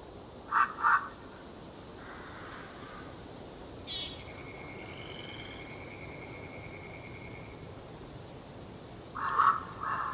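Wild birds calling over a steady background hiss: a quick pair of calls about half a second in, a long held whistle from about four seconds in, and another quick cluster of calls near the end.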